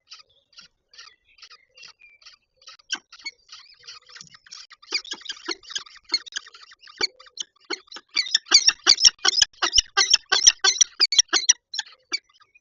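Peregrine falcon calling: a long run of short, harsh repeated notes, about three a second at first, then faster and much louder for the last few seconds before they stop abruptly.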